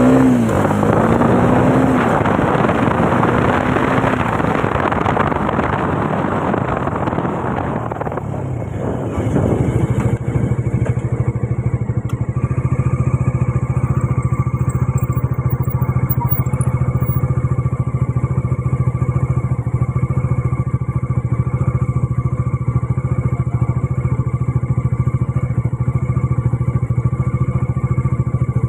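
Bajaj Dominar 400's single-cylinder engine revving, then dropping back around eight seconds in and settling into a steady idle.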